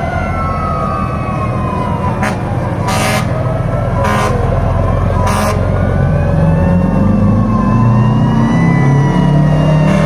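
Several fire truck sirens wailing at once, their pitches rising and falling out of step with each other. Short loud blasts come about a second apart a few seconds in. A deep low-pitched sound swells in the second half.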